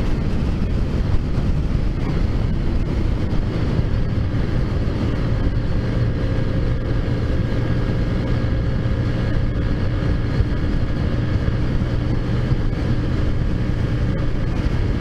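Taotao Zummer scooter's small four-stroke engine running at a steady cruising speed, its pitch holding level with no revving up or down.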